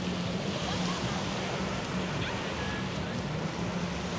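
Surf washing up on a sandy beach, with the steady low hum of a boat engine offshore running underneath.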